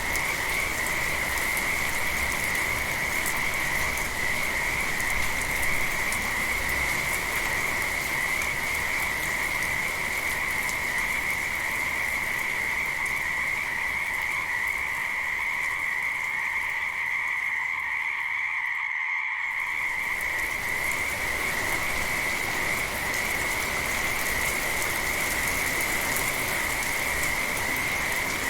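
A chorus of frogs calling in one continuous high trill over the steady hiss of rain. About two-thirds of the way in, the rain hiss briefly thins while the frogs carry on.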